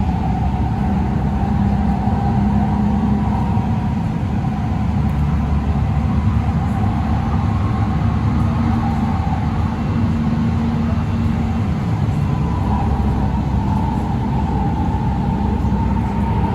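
LA Metro light rail train running between stations, heard from on board: a steady rumble of wheels on rails with a low motor hum that fades out about twelve seconds in, over a higher whine that wavers slightly in pitch.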